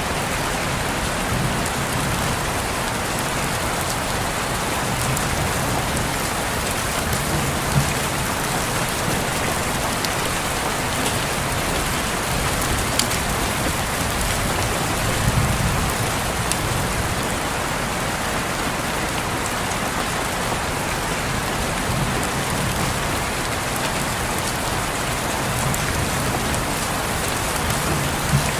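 Steady rain falling on a window pane, an even hiss of drops with a few sharper, louder drop taps now and then.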